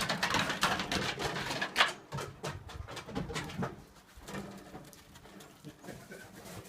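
Dove cooing over a noisy scuffling sound that is loudest in the first two seconds, followed by scattered clicks and rustles.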